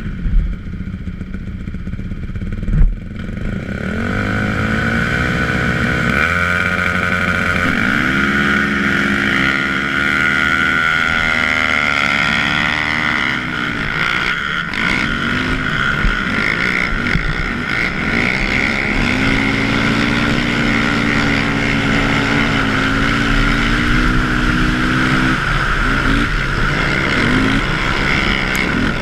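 A racing quad's engine accelerating hard on ice. Its pitch climbs and drops back in steps as it shifts up through the gears, then holds near full speed before easing off. Two sharp knocks come in the first three seconds, before the engine note rises.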